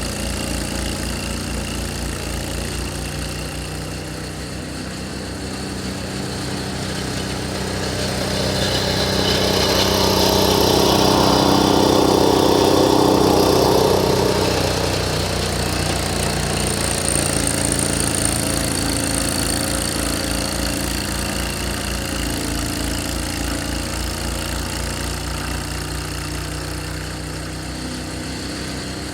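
Snowblower with a 6.5 hp, 208 cc Power First single-cylinder engine running steadily while clearing snow. It grows louder for a few seconds in the middle, then settles back.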